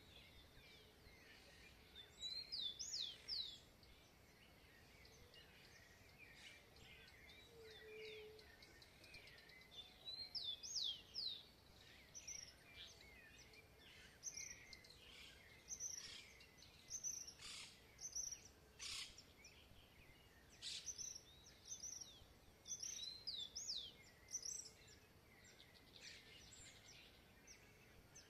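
Songbirds singing in repeated bursts of quick, high, sweeping notes with short pauses between phrases, over a faint steady hiss.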